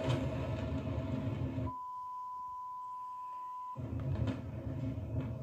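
A steady censor bleep, one pure tone held for about two seconds, blanking out an exclamation, most likely the rest of "What the...". The bleep is set between stretches of loud, low rumbling noise on a phone recording of a huge explosion, which cuts out for the bleep and comes back after it.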